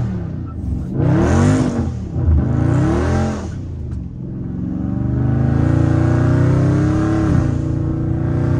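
Dodge Charger Scat Pack's 392 HEMI V8 heard from inside the cabin, revving up and down in several quick swells through a turn, then held in a long rising pull under throttle with an upshift about seven seconds in.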